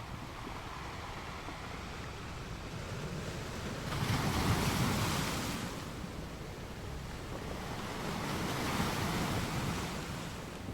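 Sea waves breaking as surf, with a steady wash of water between two surges: one rising suddenly about four seconds in, another near the end.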